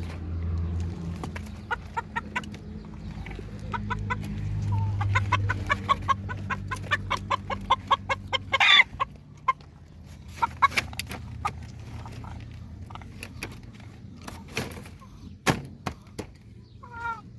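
Chickens clucking in quick runs of short repeated notes, with one louder squawk about nine seconds in. A few sharp knocks come in the second half.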